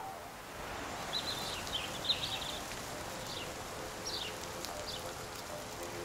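Outdoor country ambience of birds chirping: short, high chirps come several times over the first half and then a few more, over a steady background hiss.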